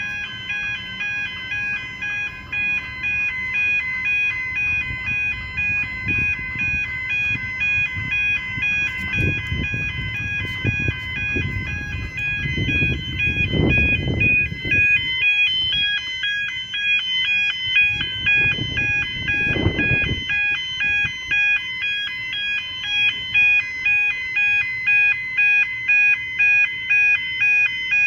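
Railway level crossing warning bells ringing in a steady, evenly repeating electronic pattern. A low rumble of a passing train or tram swells in the middle, loudest twice before dying away.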